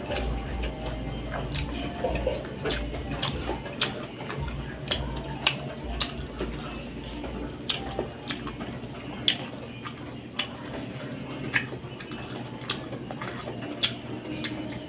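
Close-up mukbang eating sounds: a man chewing rice and fish with wet mouth clicks and smacks, sharp and irregular, about one a second.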